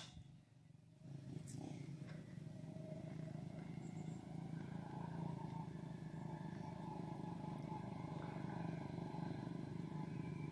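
Motorcycle engine running steadily at a low level, starting about a second in.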